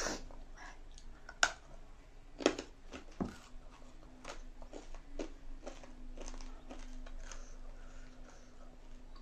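Chewing and mouth noises while eating noodles, with scattered short clicks and knocks, three of them louder in the first few seconds.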